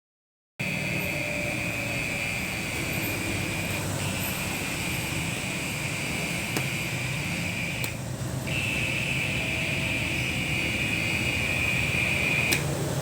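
A strange, steady, high-pitched buzzing trill from an insect hidden in a flower pot. It starts about half a second in and is held for seconds at a time, with a short break about four seconds in, a longer one about eight seconds in, and another near the end.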